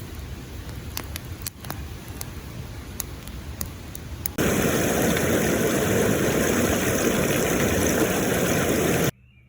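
Outdoor ambience: a low rumble with scattered sharp clicks, then, about four seconds in, a sudden cut to a loud, steady rushing noise that stops abruptly just before the end.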